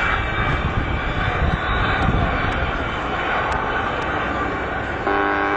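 MiG-29 jet fighter's twin engines heard in a display flypast: a steady, rumbling rush of jet noise. About five seconds in it breaks off suddenly and a steady sound of several held pitches takes over.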